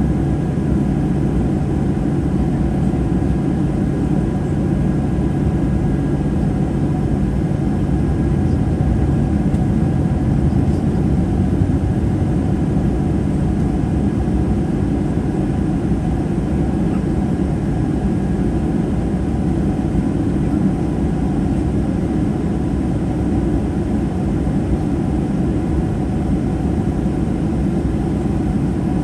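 Steady cabin noise inside a Boeing 737-800 in flight: rushing airflow and the drone of its CFM56-7B turbofan engines, with a few faint steady tones over it.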